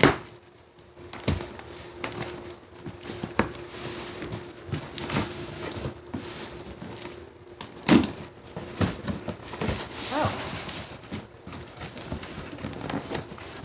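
A cardboard box and its packing being opened by hand: rustling and crinkling with scattered knocks and clicks, and a sharp thump about eight seconds in.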